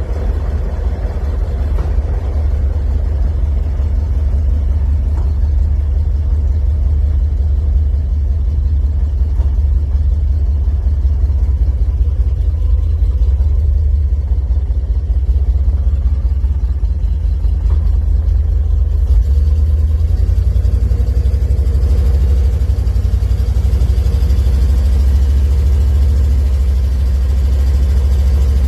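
Engine of a custom farm truck (1972 Chevrolet C50 body on an OBS Tahoe frame) running steadily with a deep engine note, growing louder over the first couple of seconds.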